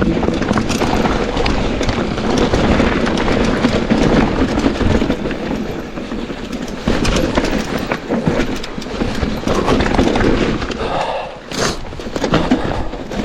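Mountain bike riding down a rough downhill trail: wind noise and the bike rattling and clattering over bumps, with a sharp knock about 11 seconds in.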